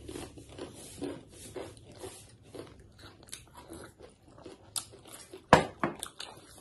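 Close-miked chewing of mouthfuls of fried instant noodles, crisp crunches about twice a second, with a few louder sharp clicks about five seconds in.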